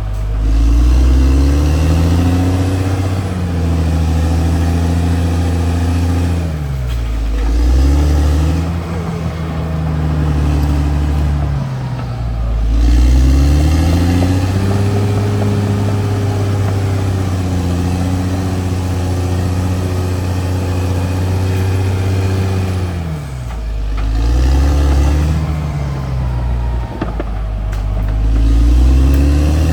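CAT D6R XL bulldozer's diesel engine working under load, its pitch sagging and climbing back up every few seconds as the machine pushes and eases off.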